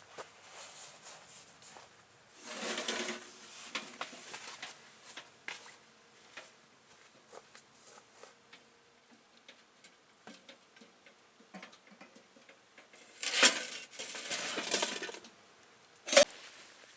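Objects being handled by hand: two spells of rustling, scattered small clicks and light clatter, and one sharp knock near the end.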